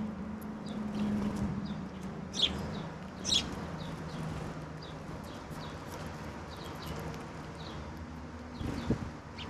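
Wild songbirds calling: many short, high chips scattered throughout, with two louder calls about two and a half and three and a half seconds in.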